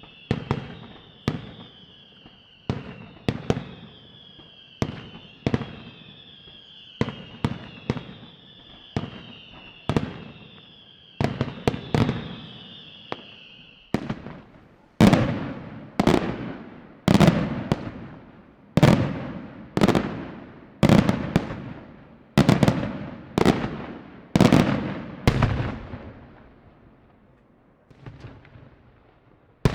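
Fireworks display: a run of sharp bangs about one every second, over repeated high whistles that drop slightly in pitch. About halfway through the whistles stop and louder, deeper booms with long echoing tails take over, thinning out near the end.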